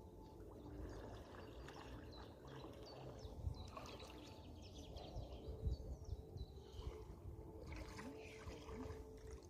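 Faint irregular splashing and trickling of water, with a low rumble underneath.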